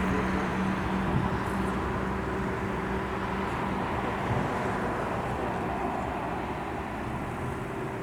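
Boeing 737 jet engines running: a steady noise with a low hum in it, slowly getting quieter.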